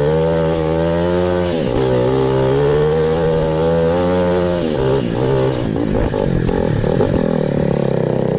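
Enduro dirt bike engine running under throttle at a steady pitch, with a sharp drop in revs about a second and a half in, then steady again. From about five seconds in the revs rise and fall unevenly.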